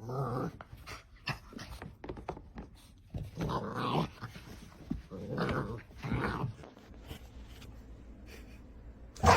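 A dog vocalizing in several short bursts: one at the start, then a cluster between about three and six and a half seconds in, with quieter scuffling in between.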